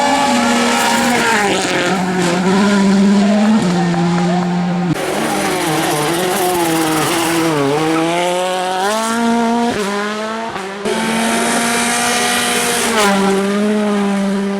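Volkswagen Polo R WRC rally car's turbocharged 1.6-litre four-cylinder engine driven hard, its note rising and dropping again and again through gear changes and lifts, with a few sharp cracks.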